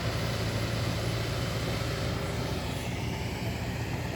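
Heavy diesel engine of a construction vehicle running steadily, a continuous low drone.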